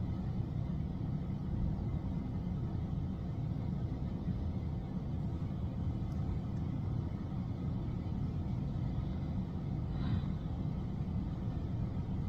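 A steady low rumble of background noise, with a faint brief rustle about ten seconds in.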